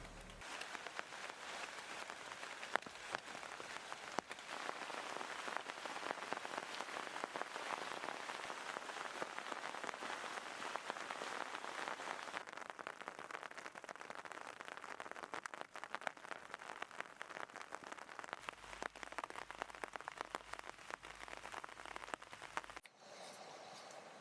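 Water pattering and splashing in a dense, steady hiss of many small drops, cutting to a fainter hiss near the end.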